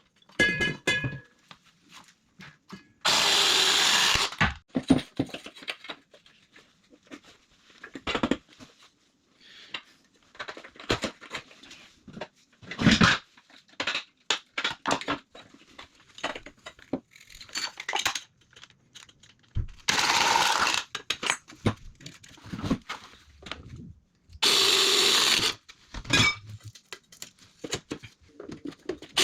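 Cordless power drill running in three short bursts of about a second and a half, with clicks and knocks of pipe and fittings being handled in between.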